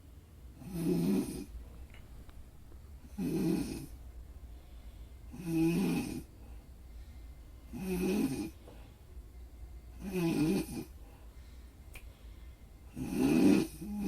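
Snoring: six snores in a steady rhythm, one about every two and a half seconds, each under a second long.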